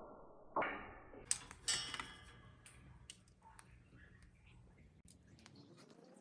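Cockatiel's beak nibbling and cracking food held in its foot: a few sharp crunchy clicks, loudest in the second second, then faint scattered ticks.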